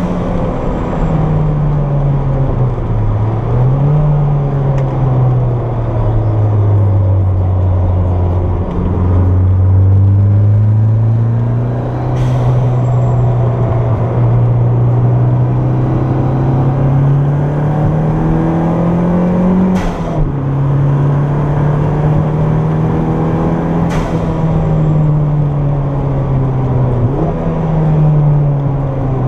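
Turbocharged Toyota MR2 engine at track speed, heard from inside the car, its pitch climbing under throttle and dropping sharply several times as it shifts or lifts off. A few short clicks are heard about twelve, twenty and twenty-four seconds in.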